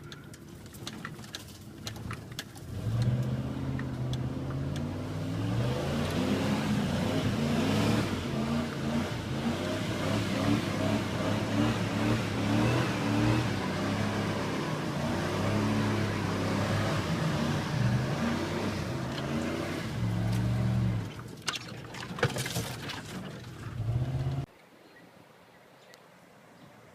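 Dodge Ram 1500 pickup's engine revving hard and unevenly under load as it is driven through deep mud ruts in two-wheel drive, heard from the truck bed. A few knocks come in the first seconds, and the sound cuts off abruptly near the end.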